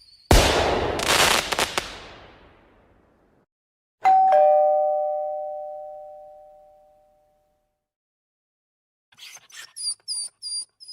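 A loud noisy crash-like burst near the start, with a second hit a moment later, fading out over a couple of seconds. Then a two-tone ding-dong doorbell chime, high note then lower note, rings out about four seconds in. Near the end a quick run of short, high chirps begins.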